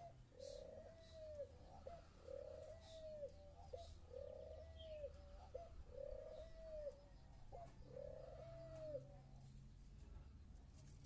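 Spotted dove cooing: a series of about five drawn-out, arching coos with short notes between them, repeating every second and a half to two seconds and stopping about nine seconds in.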